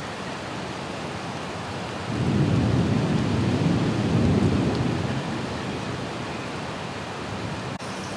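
Thunder rumbling, swelling about two seconds in and fading over the next few seconds, over the steady hiss of rain.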